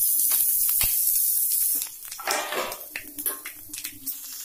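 Ginger garlic paste sizzling as it drops into hot oil and whole spices in an aluminium kadai, a loud hiss that dies down after about two seconds. After that, a ladle clinks and scrapes against the pan as the paste is stirred, with short flare-ups of sizzle.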